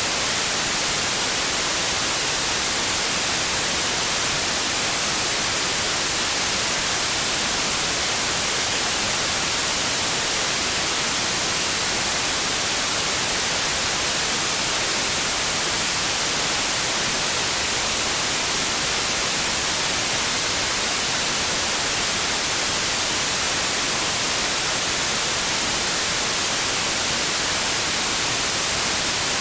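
Steady white noise: an even, unbroken hiss, strongest in the high frequencies, with no changes or other sounds.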